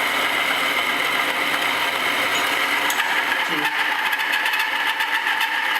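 Lever-loaded friction-test machine running completely dry: a bearing race pressed on a spinning steel roller, metal on metal under pressure, giving a steady high-pitched squeal. About halfway through the pitch shifts and fine clicking starts as the load changes, as the unlubricated contact heads toward seizing.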